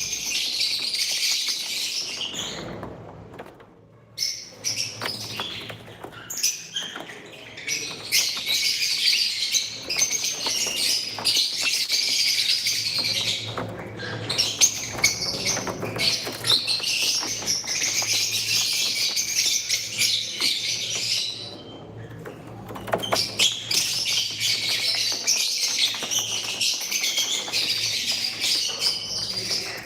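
Pet lovebirds chattering: dense, high-pitched chirping and twittering that keeps up almost without a break, with brief lulls about three seconds in, near the middle, and about two-thirds through.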